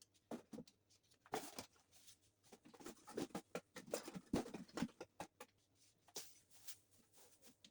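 Irregular light clicks, taps and knocks of small objects being handled and set down, a few of them sharper near the middle.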